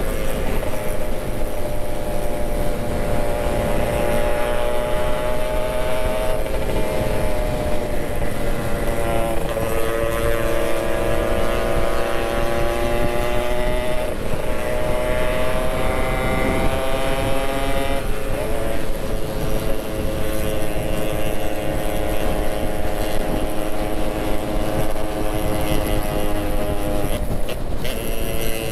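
Yamaha RX-King two-stroke single-cylinder engine running at road speed. Its pitch climbs slowly and then drops sharply several times with throttle and gear changes, over heavy wind rush on the microphone.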